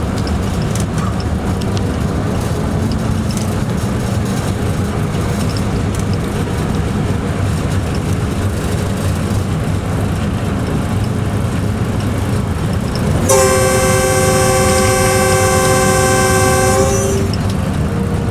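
Steady low rumble of a running locomotive heard from its cab, then one long horn blast of about three and a half seconds, a chord of two tones, starting and stopping abruptly near the end.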